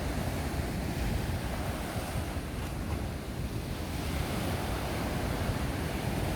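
Ocean surf washing steadily at the shore, with wind buffeting the microphone.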